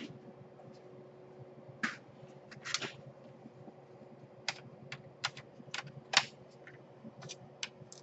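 Irregular small, sharp clicks and taps of laptop parts being handled and fitted together, the loudest about six seconds in, over a faint steady hum.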